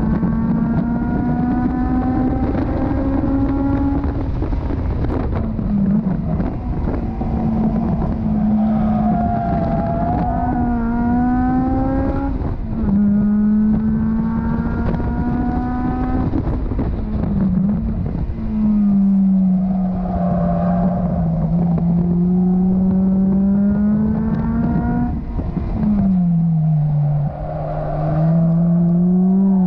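Honda S2000's four-cylinder engine heard from inside the open cockpit while lapping a race circuit. It revs up repeatedly, and the pitch drops at each upshift. Twice it falls and climbs again as the car slows for corners, with wind buffeting underneath.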